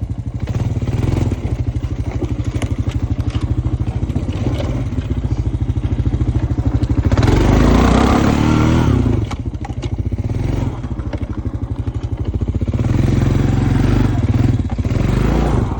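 Honda Foreman ES ATV's single-cylinder engine running under load as it climbs. It is louder as the throttle opens about halfway through and again near the end.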